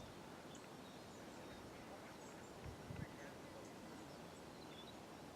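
Faint outdoor ambience: distant birds chirping now and then over a steady low hiss, with two soft low thumps a little past the middle.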